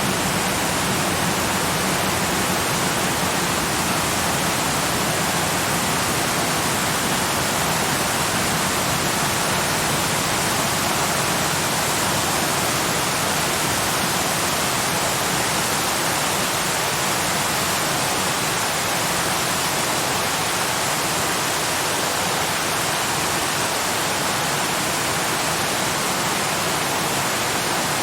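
Waterfall: a steady, even rush of falling water with no change over time.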